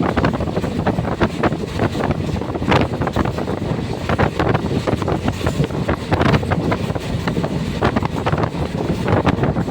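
Passenger train running: a steady low rumble with irregular rattling and clattering, and wind buffeting the microphone.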